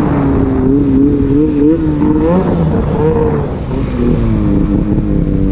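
A motor vehicle engine revving, its pitch wavering up and down, then winding down in a long falling glide near the end.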